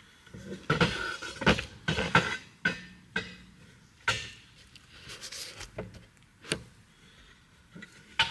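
Camera handling noise: an irregular run of knocks, clicks and rustles as the camera is picked up and moved about.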